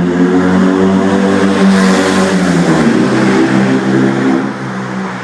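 Fiat 500 engine revving loudly in a tunnel, its pitch dropping about three seconds in and the sound growing quieter near the end.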